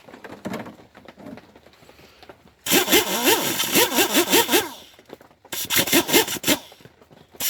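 Air impact wrench hammering on a bolt in three bursts, the second shorter than the first and the third starting near the end, with the motor's pitch wavering as it hammers; the bolt does not break loose.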